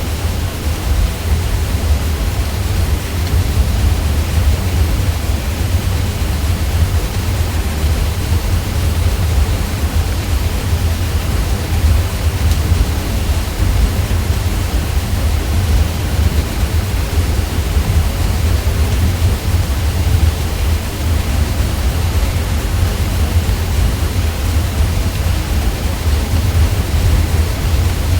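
Ceiling fan running: a steady, unvarying drone of noise, strongest in a deep low hum.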